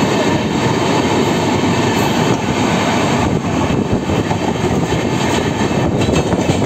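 Steady rumble and rush of two trains running side by side at speed, wheels on rails, heard from an open window of a moving train beside a Mumbai suburban electric local.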